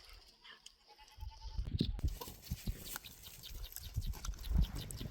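A goat bleating once with a wavering, pulsing call about a second in, followed by scattered light knocks and shuffling.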